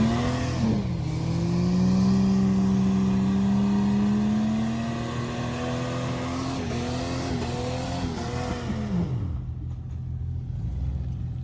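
Jeep engine revved hard and held at high revs for several seconds, the pitch creeping slowly upward as it pulls through a slick, muddy trail section. The revs drop away about nine seconds in, leaving a lower running sound.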